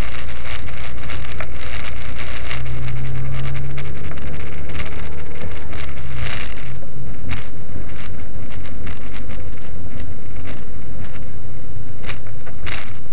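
Honda Civic's 1.4-litre D14A4 four-cylinder engine running at low revs, likely idling, heard from inside the cabin as a steady low hum. Frequent sharp crackles and clicks lie over it.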